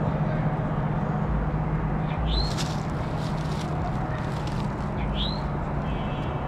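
Loaded coal train rolling past, a steady rumble of wheels on rail. A bird gives a short rising chirp twice over it.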